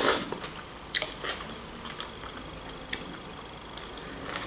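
A person chewing a forkful of buckwheat: soft, wet mouth sounds with a few faint clicks, the sharpest right at the start and another about a second in.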